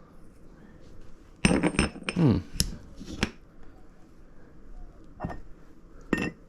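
Steel transmission gears and parts clinking and clanking against each other as they are handled on a bench: a quick run of sharp metallic knocks about a second and a half in, one with a short falling ring, then two lighter clinks near the end.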